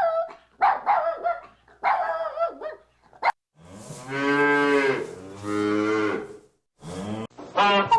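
A cow mooing twice in two long, low calls, after a few short, higher-pitched animal calls in the first three seconds. Near the end a hen starts clucking.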